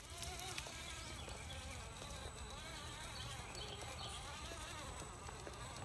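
Brushed 21-turn motor and geared drivetrain of a Redcat Gen7 RC rock crawler whining at low speed, its throttle end point limited to about 21% forward. The pitch wavers up and down as the truck crawls.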